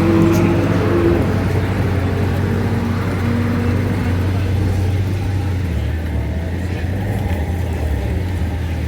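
Car engine running steadily with a low rumble, easing slightly in loudness toward the end, with faint voices behind it.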